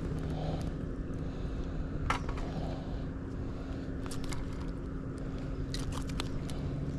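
Steady low engine hum holding two constant tones, with a few light clicks and ticks over it.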